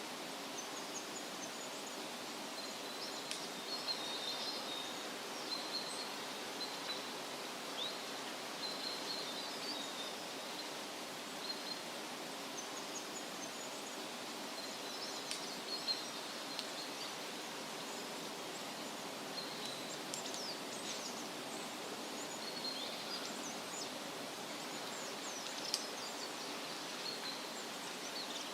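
Woodland ambience: a steady rustle of wind through leaves, with small birds chirping and twittering on and off above it.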